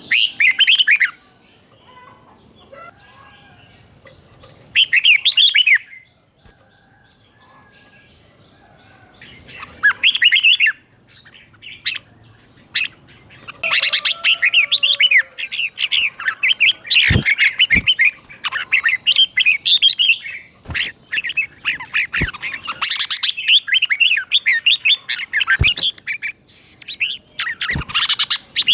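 Red-whiskered bulbul singing its warbled, whistled phrases. The song comes first as short bursts a few seconds apart, then runs almost without a break from about halfway on. A few sharp clicks fall in between. This is a teacher bird's doubled-phrase (เบิ้ล) song, played for young bulbuls to copy.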